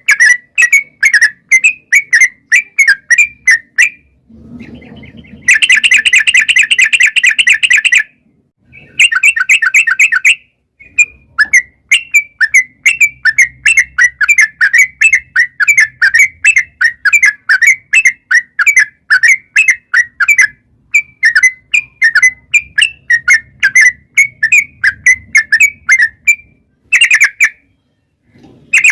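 Trucukan (yellow-vented bulbul) singing a long rapid song: a quick run of short, bright chirps, about four a second, broken by two dense, fast trills early on and a short one near the end.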